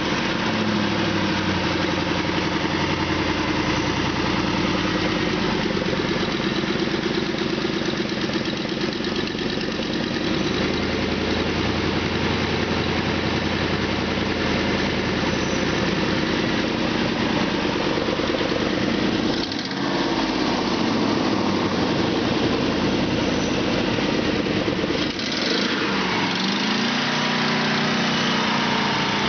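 Used engine from a 1997 Ford F-150 running steadily during a sale test, with its pitch briefly changing twice: once about two-thirds of the way through and again near the end.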